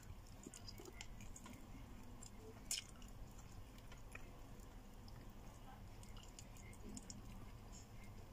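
A person chewing and biting meat held in the fingers, with faint wet mouth clicks and one sharper click a little under three seconds in.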